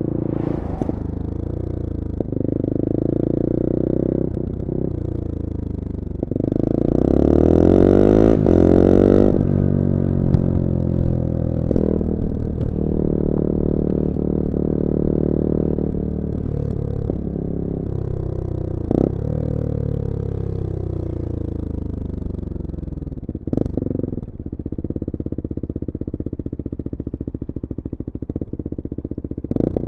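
Bullit Hero 250's CF Moto 250cc four-stroke engine running under way, its pitch climbing in a loud burst of acceleration about seven to nine seconds in, then falling and rising again through the gears. A few short clicks come in between.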